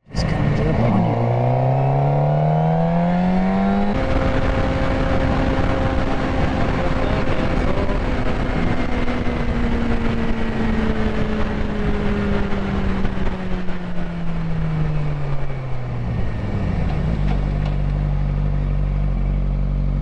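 Suzuki GSX-R sportbike engine accelerating, its pitch climbing for the first four seconds, then holding high revs and slowly winding down. It settles to a steady lower note for the last few seconds, under heavy wind noise.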